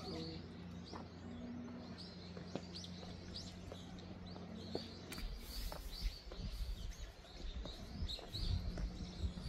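Small birds chirping repeatedly, short high notes scattered through the whole stretch. From about five seconds in, a low irregular rumble on the microphone joins them.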